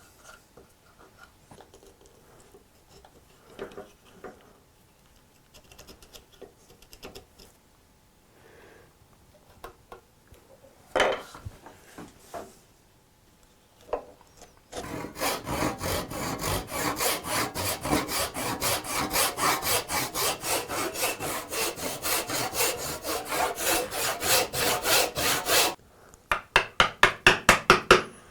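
A hand tool working hardwood in fast, even back-and-forth strokes, about five a second, that go on for around ten seconds. A short run of louder strokes follows near the end. Before the strokes there are light taps and a single sharp knock.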